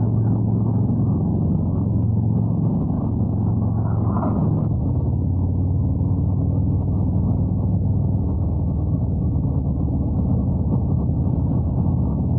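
Harley-Davidson Road Glide's V-twin engine running steadily at cruising speed, with wind rush on the microphone.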